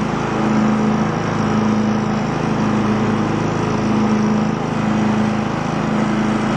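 Craftsman lawn tractor engine running steadily, with a slow, regular waver about once a second.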